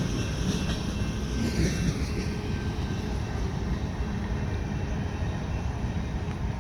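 Freight train cars rolling past, a steady low rumble that slowly eases as the train passes.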